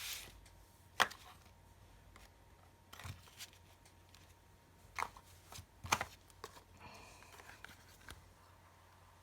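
Hands handling a perfume bottle and its packaging: several sharp clicks and taps a second or two apart, then a short, faint scratchy rustle about seven seconds in.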